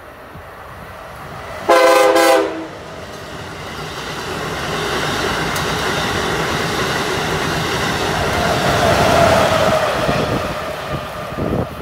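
Amtrak Acela Express electric trainset sounding one short horn blast on approach, about two seconds in, then passing at speed with a building rush of wheel and rail noise that peaks as the rear power car goes by, with a falling tone near the end.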